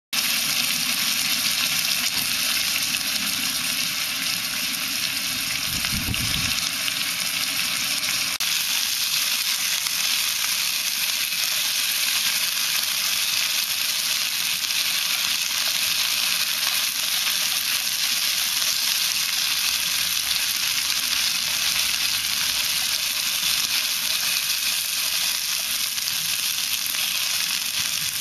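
Beef and vegetables sizzling steadily as they stir-fry in an Iwatani CB-P-JRM multi-plate pan over a cassette gas stove, turned with chopsticks. A short low rumble about six seconds in.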